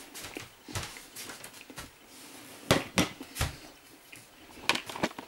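A series of short knocks and clatters with light rustling between them, as household things are handled and set down.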